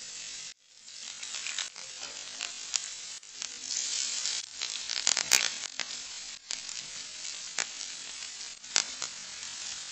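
Chopped garlic, diced carrot and other vegetables sizzling in hot oil in a nonstick frying pan: a steady hiss with scattered sharp crackles and pops. The sizzle starts as the garlic goes in, drops out for a moment, then goes on, with the loudest pops about five seconds in.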